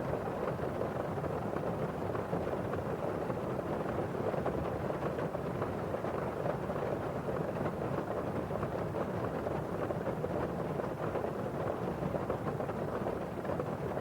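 Steady rain on a window: a dense, even patter of drops on the glass, dull and muffled, with the wash of rain falling outside.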